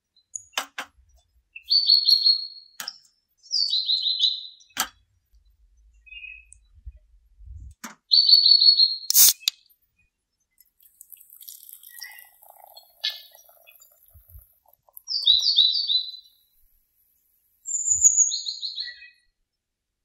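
A songbird singing five short, descending phrases a few seconds apart, with a few sharp clicks between them. The loudest click comes about nine seconds in.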